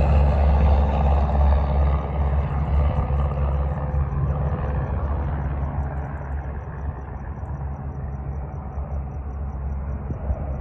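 Aircraft engine noise fading steadily as the aircraft moves away, the higher part of the sound dying out first and leaving a low rumble.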